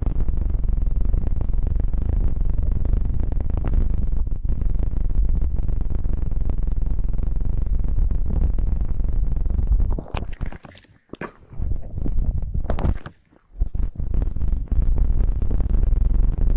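Hands pinching and rubbing a binaural microphone's ears: a close, muffled rumbling rub, dropping away twice about ten and thirteen seconds in, with brief crackly scrapes.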